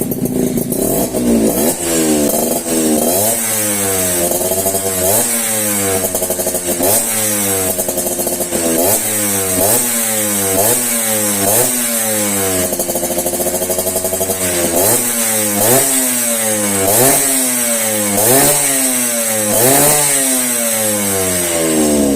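Suzuki RC Sprinter's two-stroke single-cylinder engine fitted with a 79DUX racing exhaust, revved hard in repeated throttle blips about once a second. The revs rise and fall each time, with a longer hold at high revs about halfway through.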